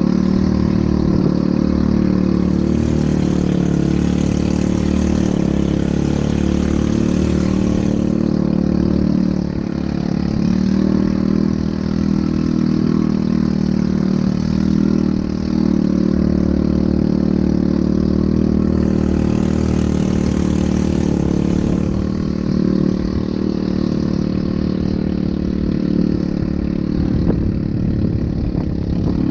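ATV engine running steadily, its pitch shifting slightly now and then.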